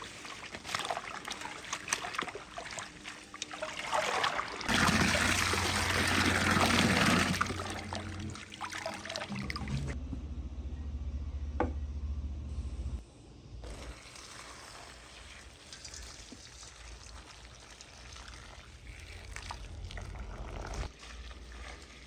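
Water pouring and trickling, loudest between about five and eight seconds in, then dropping off suddenly about thirteen seconds in to a softer trickle.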